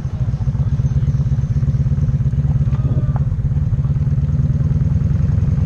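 Motorcycle engine running steadily, a fast even low pulsing.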